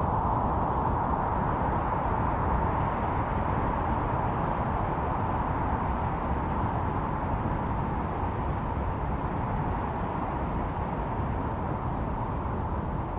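Snowstorm wind blowing steadily, a broad hiss over a low rumble, easing off slightly in loudness.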